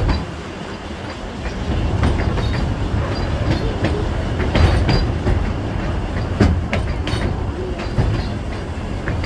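Puffing Billy narrow-gauge train's carriage rolling along the track: a steady low rumble with irregular clicks and knocks from the wheels over the rails.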